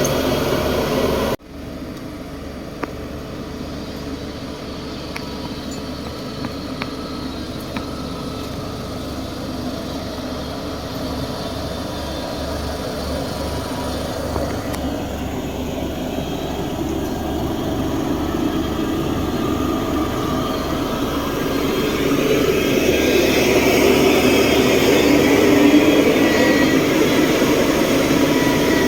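Diesel engine of heavy earthmoving machinery running steadily, with an abrupt cut about a second in, then growing gradually louder, most of all over the last third.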